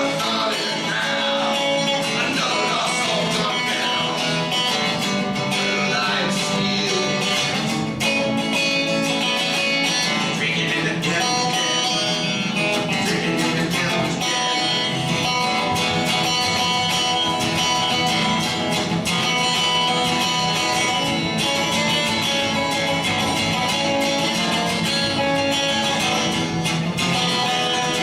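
Live band music without vocals, led by strummed guitars at a steady level.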